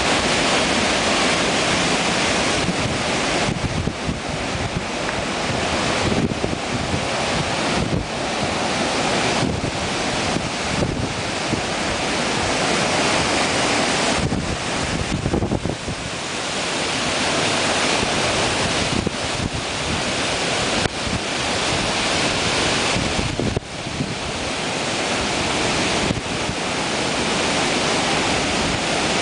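Hurricane-force wind gusting hard, rising and falling with brief lulls every few seconds, and buffeting the microphone.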